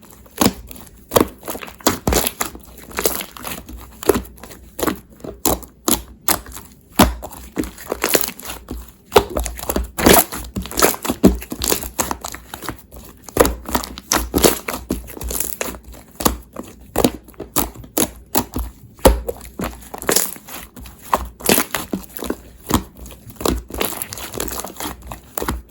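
Crinkling and crackling handling sounds: a quick, irregular run of sharp crackles, as of something being squeezed and crumpled by hand.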